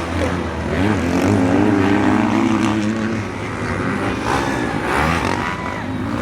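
Motocross bike engines running and revving, their pitch rising and falling.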